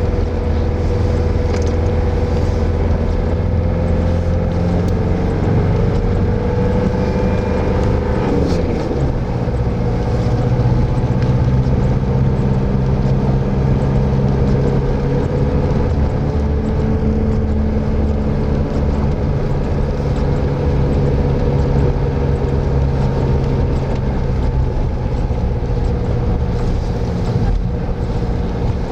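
Vehicle engine running steadily while driving, with road noise; its pitch creeps up and then drops sharply about eight seconds in, as at a gear change, and holds steady after.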